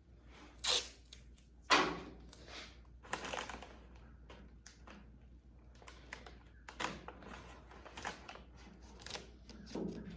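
Irregular clicks and short scuffing noises of hands working on something, with a sharp click about a second and a half in.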